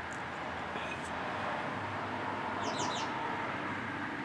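A bird chirps: a quick run of about four high chirps near the middle, over a steady background hum.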